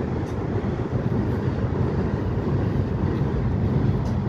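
Freight train cars rolling across a steel truss railway bridge: a steady, low rumble of wheels on the rails.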